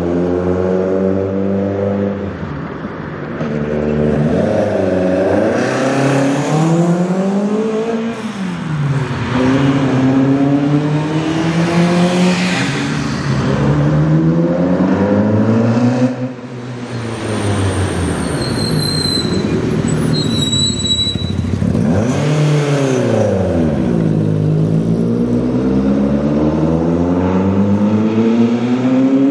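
Peugeot 205 rally car's engine accelerating hard through the gears, the engine note climbing and dropping at each shift, several times over. About two-thirds of the way through, the car drives close past and the note sweeps up and then down.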